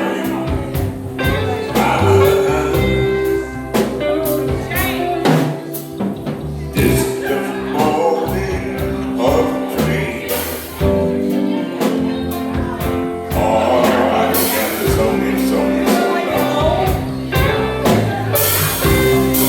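Live band playing an instrumental passage of a slow soul ballad: held chords with drum kit hits and cymbal crashes.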